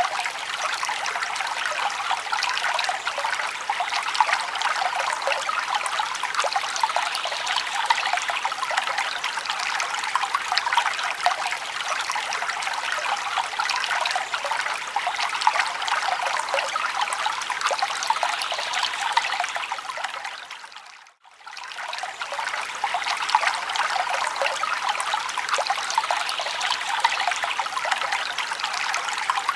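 Forest stream babbling and trickling steadily, its flow full of small splashes. About 21 seconds in, the sound fades out briefly to silence and comes straight back.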